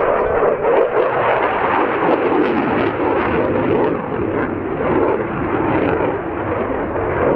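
Dassault Rafale's twin turbofan jet engines, a loud steady jet noise as the fighter flies its display pass.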